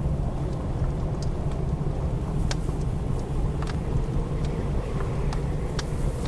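Wood fire crackling with a handful of sharp, scattered pops over a steady low roar of blizzard wind.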